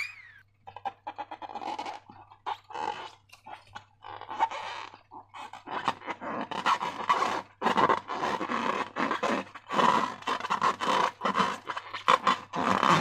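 Slime being squeezed and kneaded by hand: wet squelching and sticky crackling in quick, irregular bursts. It gets busier and louder about six seconds in.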